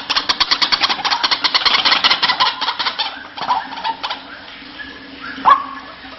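White-breasted waterhen calling: a fast rattling chatter of about ten notes a second for three seconds, then a few scattered notes and one loud abrupt harsh call near the end.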